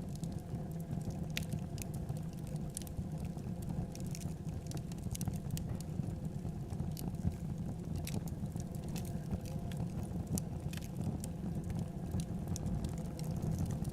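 Wood fire burning in a fireplace: a steady low rumble of flames with frequent small, irregular crackles and pops from the burning wood.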